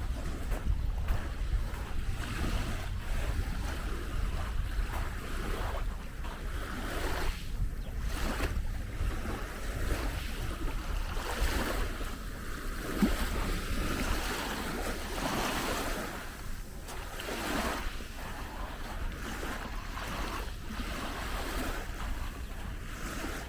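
Small sea waves washing onto the shore, swelling and fading every few seconds, with wind buffeting the microphone in a steady low rumble.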